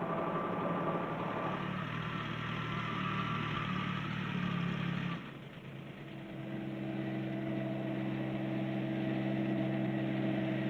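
Ford compact tractor's three-cylinder diesel engine running steadily under work. About five seconds in the sound drops away briefly, then a steady engine note picks up again.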